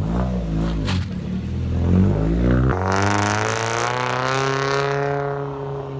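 Car engines revving and accelerating. One engine's pitch rises and falls in the first seconds, then a louder engine climbs in pitch from a little before halfway and eases slightly near the end.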